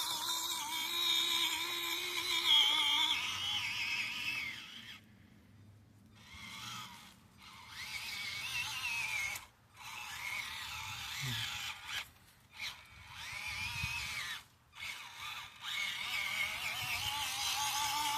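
Small electric motor and gearing of an SCX24 micro RC crawler whining as it drives, the pitch rising and falling with the throttle and cutting out several times when the throttle is let off.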